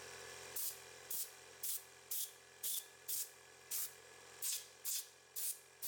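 Repeated short hissing blasts of spray from a nozzle, about two a second, blowing out the oiling system of a chainsaw's 18-inch bar.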